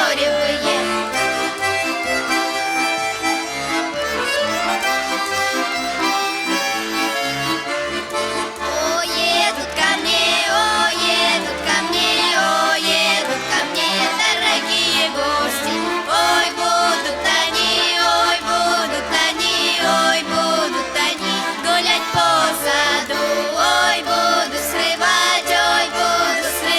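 Accordion playing a lively Russian folk song in an instrumental passage, melody over a steady pulse of bass notes.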